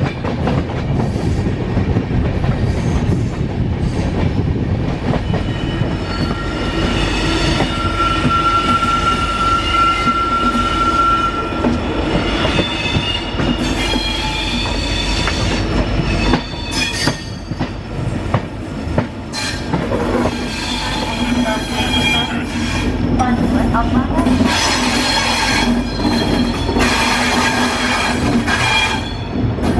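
Passenger train's steel wheels squealing on the rails, several high steady tones coming and going over the rumble and clatter of the coaches, with a few sharp clanks about halfway through.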